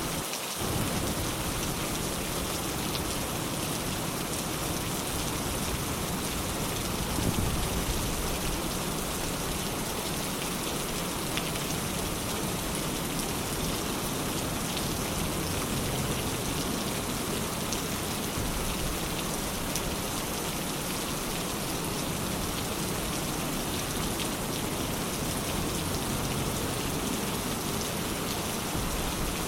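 Steady rain falling: an even, continuous hiss of rain on surfaces with scattered individual drop ticks.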